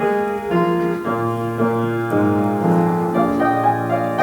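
Piano playing the introduction to a Christmas carol medley, notes changing about twice a second over a deep bass note held from about a second in.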